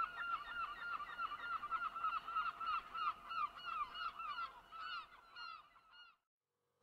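A bird calling a rapid series of short, squeaky, arched notes, about four or five a second, fading away and stopping near the end.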